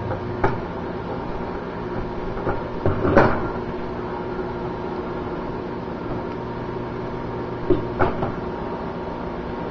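Microwave oven running with a steady hum, broken by a few sharp pops from the non-microwavable cup of ice heating inside, the loudest about three seconds in and two close together near the end.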